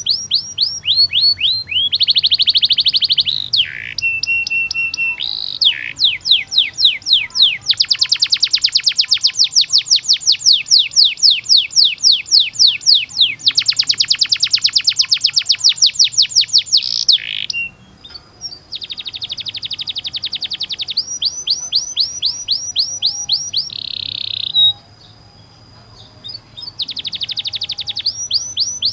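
Domestic canary singing: fast trills and long rolls of rapidly repeated notes, switching from one phrase to the next every few seconds, with a short held whistle a few seconds in and two brief pauses in the second half.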